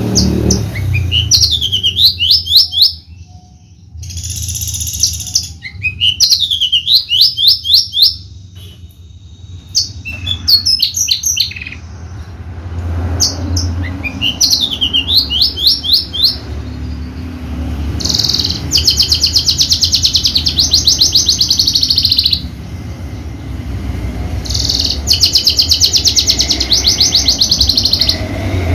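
A branjangan (Horsfield's bush lark, Javan type) singing a long, varied song of quick sweeping whistled notes, with two long rapid trills in the second half. A steady low hum runs underneath.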